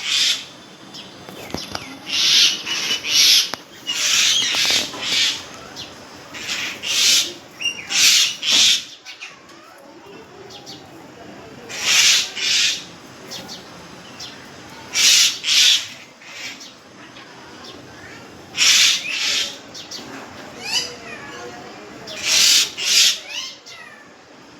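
Harsh, noisy bird calls, given in quick clusters of two or three short screeches that repeat every few seconds.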